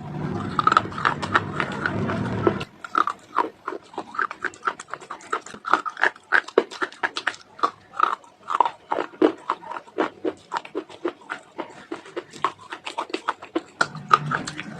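Close-up crunching and chewing of dry clay chunks: a rapid, irregular run of sharp crackles and crunches. A low steady noise runs under the crunching for about the first two and a half seconds, then stops.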